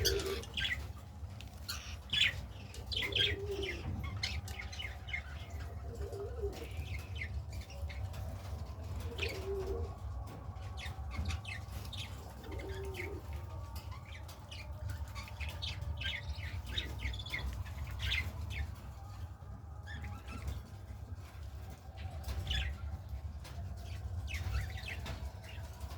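Loft pigeons cooing, a low coo about every three seconds in the first half, among wing flapping and short chirps from the birds.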